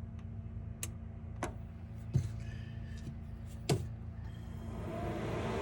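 Diesel air heater starting up on a 12 V battery: a steady low hum with a few sharp clicks, then near the end its blower fan begins spinning up, a rising whir.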